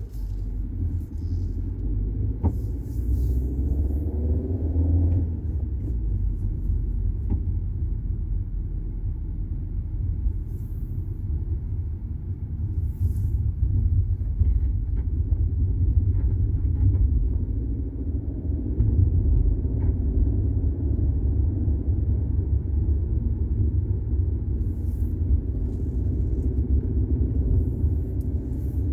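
Steady low rumble of a Volkswagen Golf 6 TSI driving, with a few faint clicks.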